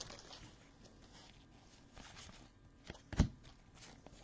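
Quiet handling of trading cards, a few faint slides and taps, with one sharper tap a little past three seconds in.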